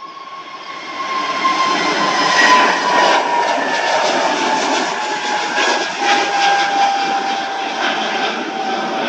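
Airliner's engines running loud close by, a steady rumble that swells about a second in, with a whine that slowly falls in pitch as the aircraft goes past.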